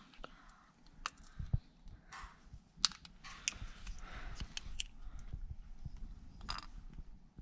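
Scattered light clicks and short rustles of small objects being handled, over a faint low rumble.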